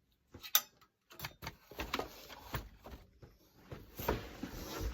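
Scattered light clicks and knocks with soft rustling, like small objects being handled; one sharp click about half a second in is the loudest.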